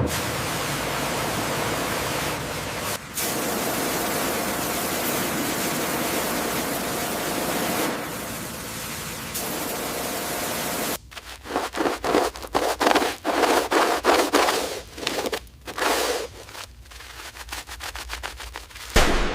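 A steady, loud hiss, like a high-pressure jet, broken by a few abrupt cuts. About eleven seconds in it gives way to a run of quick, irregular scraping strokes on metal.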